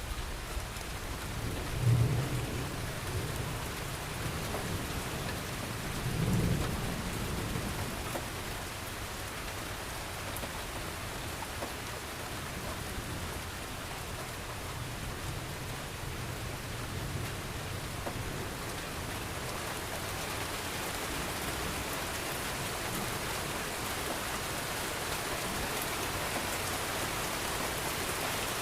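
Steady rain falling, with two rolls of thunder rumbling low about two seconds and six seconds in, the first the louder; the rain grows a little heavier in the second half.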